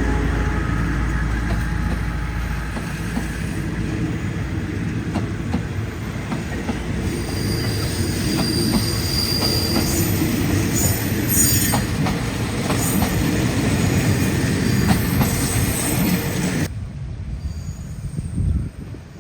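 A train rolling past on the tracks, with a low engine hum at first, wheels clicking over the rail joints and high wheel squeal in the middle. The sound drops off sharply near the end.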